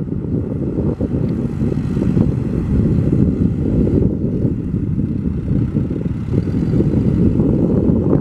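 Diesel engine of a Case 580M Series III loader backhoe running steadily, a low rumble.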